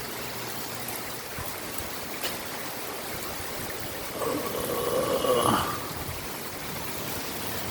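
Heavy rain with water running and splashing off house rain gutters, a steady rushing. About four seconds in, a brief pitched sound lasting about a second and a half rises above the rain.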